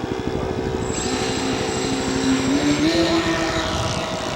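Engines of a radio-controlled scale model Twin Otter running during a touch and go; the engine pitch rises a little partway through.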